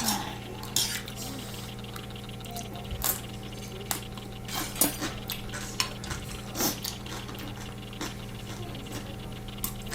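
A spoon clinking and scraping against an earthenware ttukbaegi pot as rice is stirred into the ramen broth, in scattered light knocks over a steady low hum.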